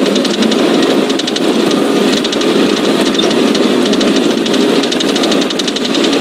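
Steady engine and road noise inside a moving highway patrol car, with a fast, light ticking running over it.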